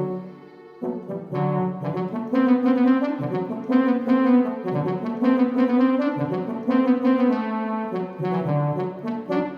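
Yamaha DX7 FM synthesizer playing a brass-like patch. A phrase of melody notes over sustained lower notes starts about a second in and dies away near the end.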